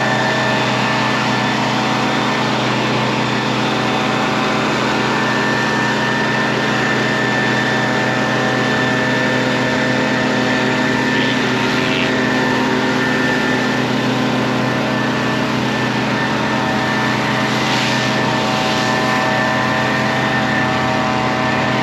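Gas-powered pressure washer, a Stihl RB 400, running steadily at a constant engine speed, with the hiss of the spray.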